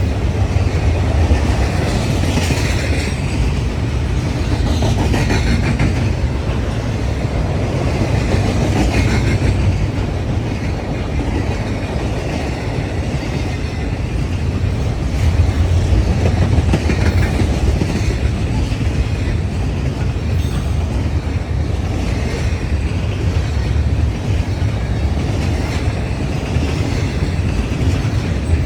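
BNSF intermodal freight train rolling past, a steady heavy rumble with wheels clattering continuously over the rails.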